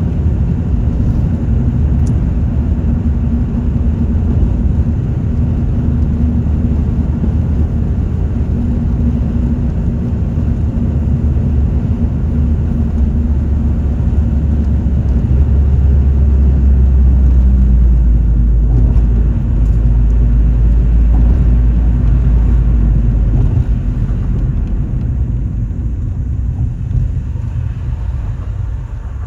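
Car being driven: steady low engine and road rumble, swelling stronger around the middle and easing off near the end.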